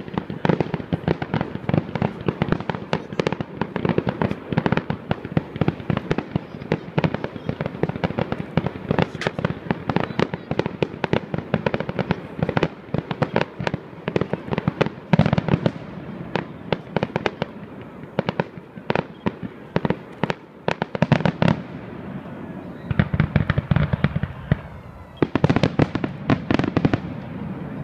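Fireworks display: aerial shells bursting in a rapid, continuous string of bangs and crackles. A brief lull comes about three quarters through, then a denser flurry of reports near the end.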